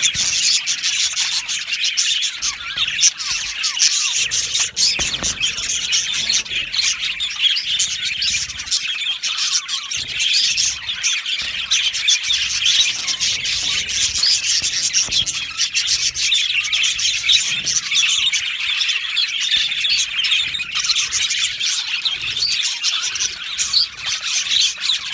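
A flock of budgerigars chattering and chirping continuously, many birds overlapping in a dense, steady warble.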